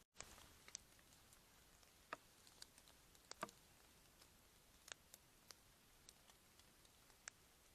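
Near silence with faint, irregular clicks and ticks, about one or two a second.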